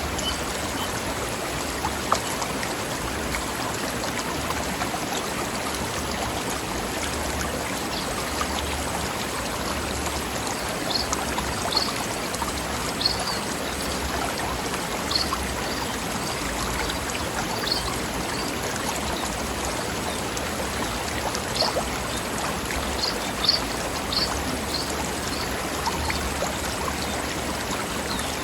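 Mountain stream flowing steadily over rocks, a continuous rushing babble with occasional brief louder splashes and plops.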